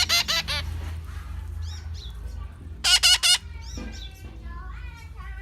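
Hungry parrot calling: a quick burst of about four loud, harsh squawks, another such burst about three seconds later, and softer chirping and warbling calls between and near the end.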